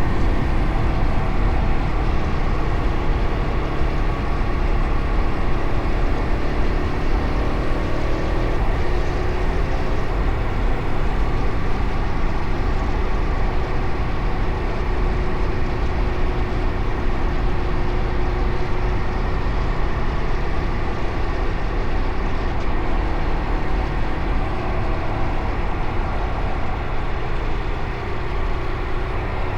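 Fantic Caballero Rally 500's single-cylinder four-stroke engine running steadily while riding, its engine note shifting about eight seconds in, over a low road and wind rumble.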